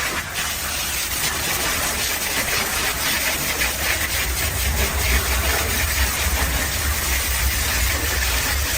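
Pressure washer spraying water: a steady hiss of the jet over the low hum of the pump.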